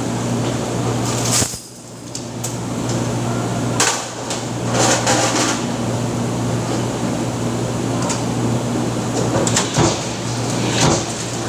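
Factory press machinery running with a steady electrical hum and noise, broken by intermittent sharp metal clacks and knocks. The noise drops off briefly about a second and a half in, then comes back.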